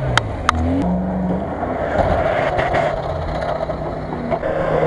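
Car engines running and revving under load off-road, with a few sharp clicks near the start.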